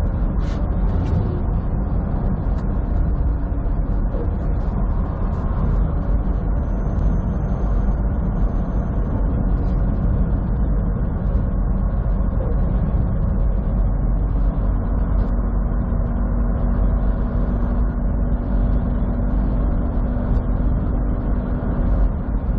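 Steady engine drone and road rumble inside a truck's cab cruising on the highway.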